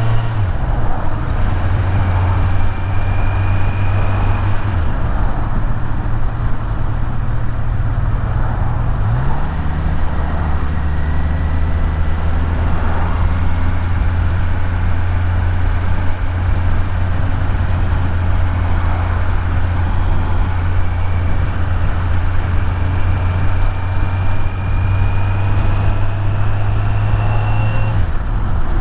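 Kawasaki Z900 inline-four engine running under way with steady wind noise; the engine note steps down about a second in and again around five seconds, rises sharply around nine seconds, holds steady, and drops again near the end.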